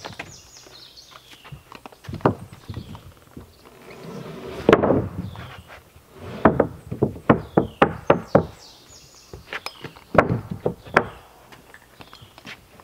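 Hammer blows and knocks on wooden deck boards, irregular single strikes with quick runs of several blows in a row.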